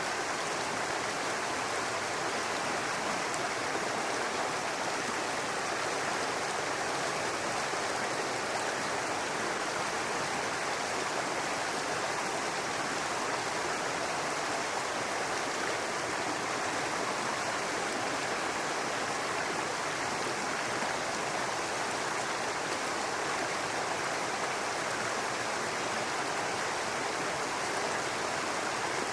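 Shallow brook babbling steadily over rocks, a constant even rush of water.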